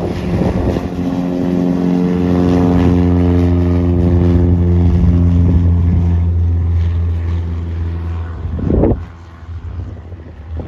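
Small propeller plane's piston engine running close by with a steady drone. A brief loud rush comes near the end, after which the sound is much quieter.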